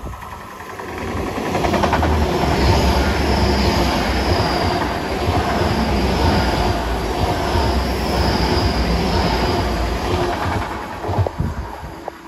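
Great Western Railway Class 800-series Intercity Express Train passing close by. The sound builds over the first two seconds, runs loud and steady with wheels on the rails and a faint high whine for about eight seconds, then fades as the train draws away.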